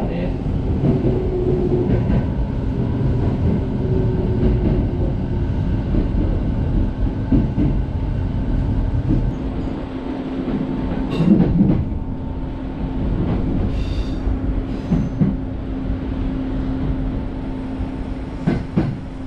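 Izukyu 'Aloha' electric train running, heard from inside the carriage: a steady rumble of wheels on rail under a constant motor hum, with a few knocks and clacks from the track.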